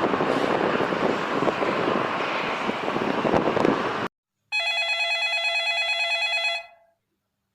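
About four seconds of loud, steady rushing noise that cuts off sharply. After a brief gap, a telephone rings once for about two seconds as a steady tone, then fades out.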